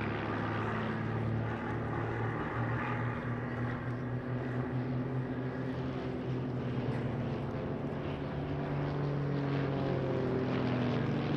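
Piston engines and propellers of Van's RV-8 aerobatic light aircraft flying a formation loop, a steady drone whose pitch shifts slightly.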